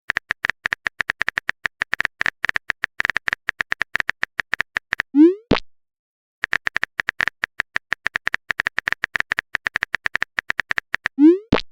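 Messenger-app typing clicks: a rapid, irregular run of short taps for about five seconds, ending in a short rising 'message sent' tone. After a brief pause, a second run of typing clicks ends in the same rising tone near the end.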